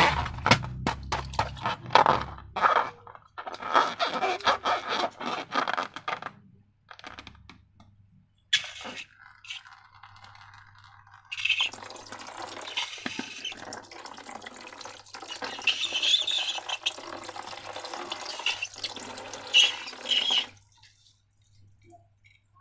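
Wet, sticky slime sounds: a run of quick squishing clicks at first, then a long continuous pour or squeeze of thick liquid lasting several seconds, which stops near the end.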